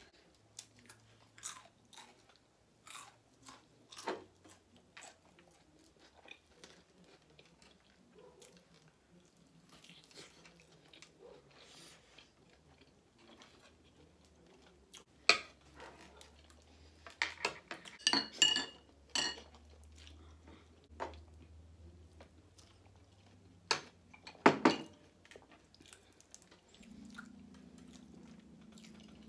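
Close-miked mouth sounds of people chewing and biting food, with small wet clicks and crunchy bites. Louder crunches come in a run a little past halfway and again near the end.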